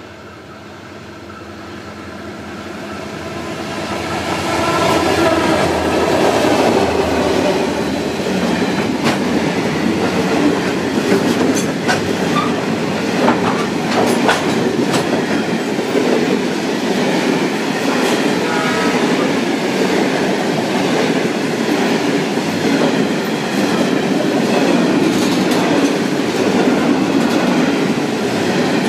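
Diesel train approaching and passing through the station at speed: it grows louder over the first five seconds, then the carriages' rumble carries on steadily, with clicks of the wheels over the rail joints.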